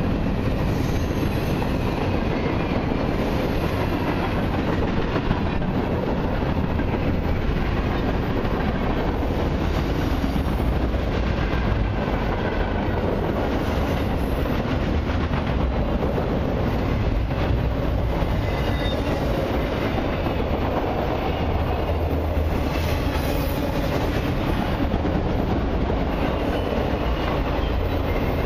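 Freight cars of a long mixed freight and autorack train rolling past at steady speed: a continuous rumble of steel wheels on the rails, with faint wheel squeal here and there.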